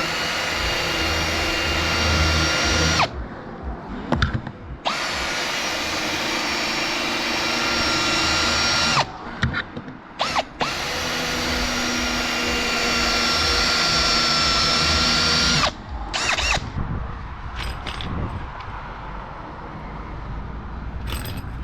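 Power drill running at a steady pitch in three long runs a couple of seconds apart, driving screws into the timber roof framing. A few light knocks and clicks follow near the end.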